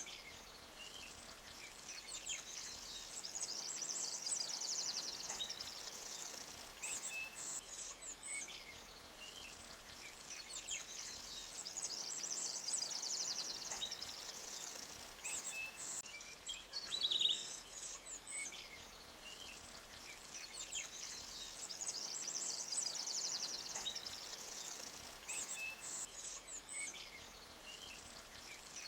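Small birds chirping and trilling high over a steady low hiss of flowing water, the chirps rising and falling in waves every few seconds.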